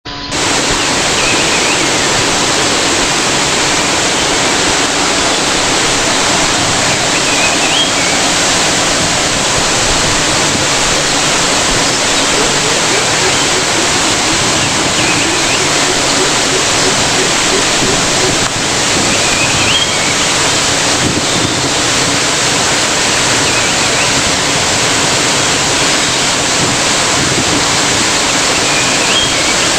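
Waterfall rushing in a steady, loud roar of falling water. A faint, short, high chirp comes through the water noise now and then, every few seconds.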